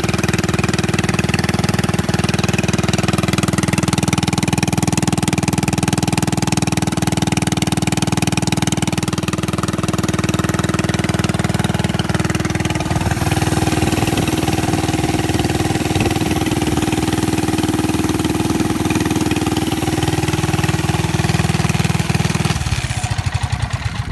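A Tecumseh 6.5 HP OHV single-cylinder four-stroke engine on a mini bike running close by, loud and steady. Its note changes about halfway through and again later, and it stops just before the end.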